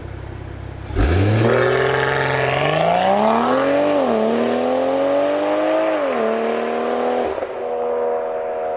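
BMW M340i's turbocharged straight-six with a full FI aftermarket exhaust and 200-cell downpipe, accelerating hard through the gears. The engine note rises steadily, dips at two upshifts about three and five seconds in, then falls back to a steady lower drone near the end as the car eases off.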